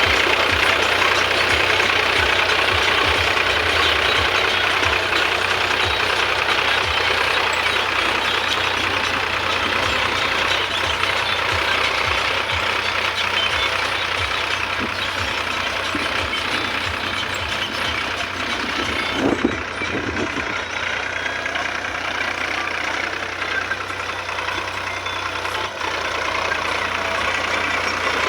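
Sonalika tractor's diesel engine running steadily, with one brief louder clunk about two-thirds of the way through.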